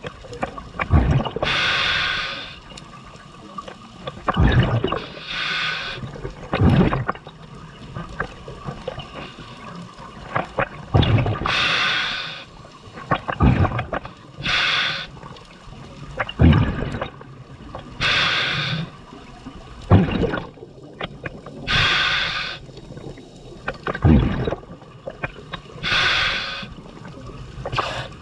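Scuba diver breathing through a regulator underwater: a hissing inhalation through the demand valve alternates with a bubbling exhalation, roughly every three to four seconds.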